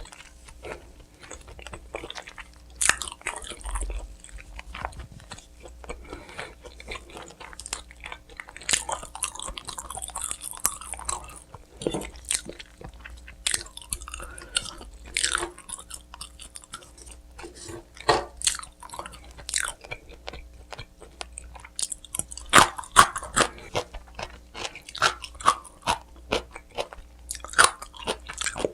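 A person biting and chewing crunchy food close to the microphone, with repeated sharp crunches and wet chewing clicks.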